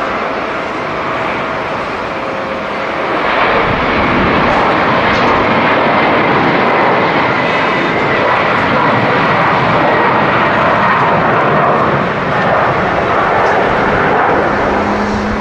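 Passenger jet's engines, a loud even rush of noise that swells about three and a half seconds in and then holds steady.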